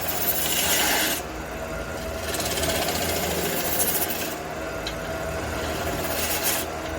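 Wood lathe running with a steady motor hum while a large aromatic red cedar blank spins on it. Stretches of scraping, hissing noise come and go as the wood is worked: one at the start, a longer one from about two to four seconds in, and another beginning near the end.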